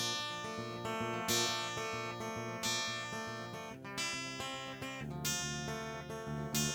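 Acoustic guitar strummed with no singing, an accented strum roughly every second and a half and the chords changing as it goes.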